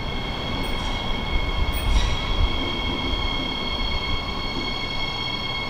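Siemens Desiro HC double-deck electric train running slowly into the station, squealing steadily at several high pitches at once as it rounds the curve, over a low rumble.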